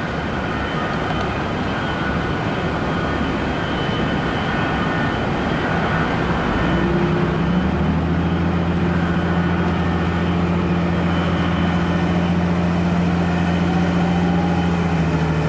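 Steady machinery drone heard from the flight deck of an airliner under tow. About halfway through, a lower steady hum joins in and holds.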